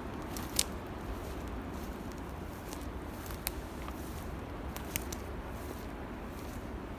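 Footsteps on a forest floor: a steady rustle with a few sharp cracks of twigs or debris underfoot.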